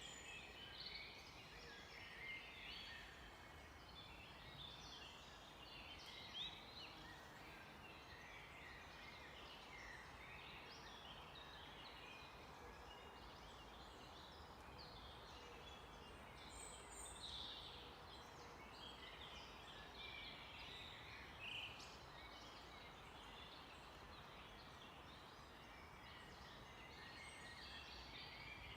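Faint forest birdsong: many small birds chirping and calling over one another, with short quick notes throughout, over a soft steady background hiss.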